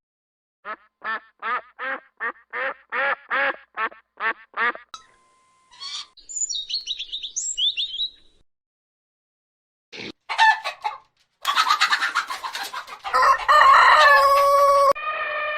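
Chickens calling in a series of separate bits: a quick run of about a dozen short clucks, then high chirps, then a few brief calls. Near the end comes a long, loud rooster crow that falls in pitch at its close.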